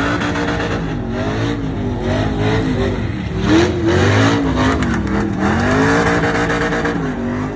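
A truck engine revving up and down over and over, its pitch rising and falling about once a second.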